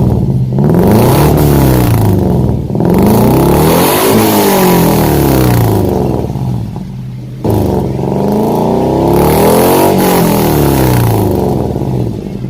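Car engine revved repeatedly through an aftermarket universal exhaust muffler. The pitch rises and falls several times, with brief drops back toward idle.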